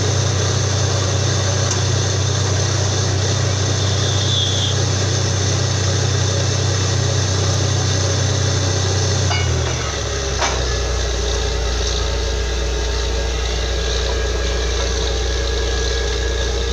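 Borewell drilling rig's engine running steadily, its note dropping lower about ten seconds in, with a single sharp knock just after the change.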